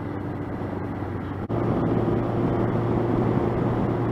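Honda CB700SC Nighthawk's inline-four engine running under way, a steady hum that steps up slightly in pitch and gets louder after a brief dropout about a second and a half in.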